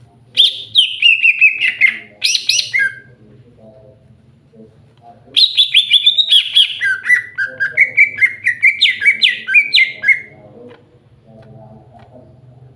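Green leafbird (cucak hijau) singing in two bursts of rapid, chattering notes: a short phrase at the start and a longer one through the middle, over a faint low hum.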